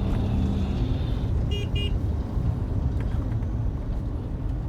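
Vehicle on a road, with a heavy low rumble throughout. Two short, high beeps like a horn toot come about a second and a half in.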